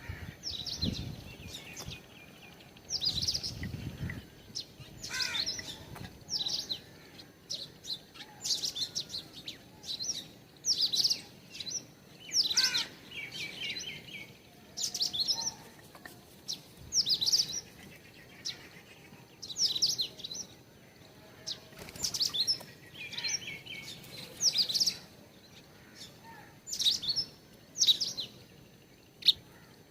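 Small birds chirping, short high calls repeated every second or two, sometimes overlapping.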